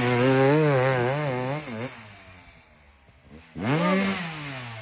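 Motocross bike engines. One revs in quick uneven waves and fades away over the first two seconds; about three and a half seconds in, another comes up loud, its pitch rising then falling as it passes and fades.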